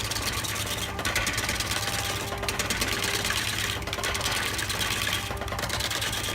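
Woodworking machine running with a steady hum and a rapid mechanical clatter, its cutting hiss dropping away briefly about every second and a half.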